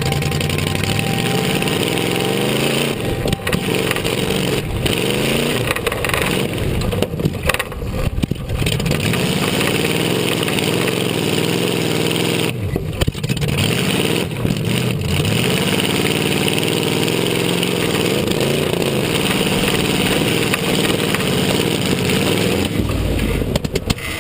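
Off-road tough truck's engine running hard, its pitch rising and falling again and again as it is revved and let off.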